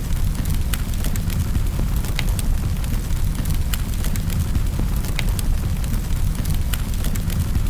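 Wood fire in a fireplace crackling: a steady low rumble of the burning fire with sharp snaps and pops scattered several times a second.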